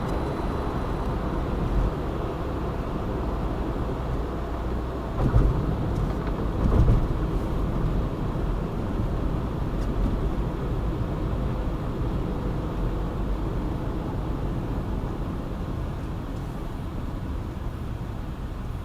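Steady road and tyre noise of a car driving along a multi-lane urban highway, with two louder low thumps about five and seven seconds in.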